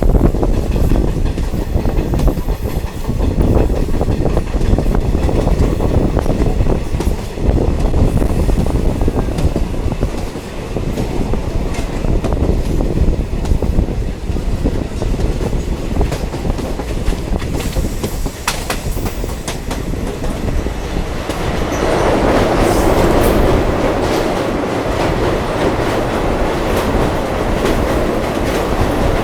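Diesel multiple unit train running along the track, a steady rumble with the clickety-clack of wheels over the rails. About 22 seconds in, the running noise grows louder and rougher.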